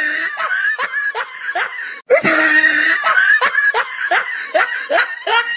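Laughter in quick repeated bursts, about three a second, briefly cut off about two seconds in.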